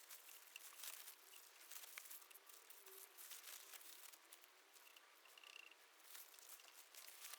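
Near silence with faint rustling and scattered light clicks.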